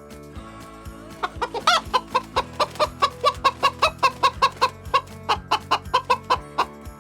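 Chicken clucking in a fast run of short clucks, about four or five a second, starting about a second in and stopping near the end, with one louder, higher call early in the run. Background music plays underneath.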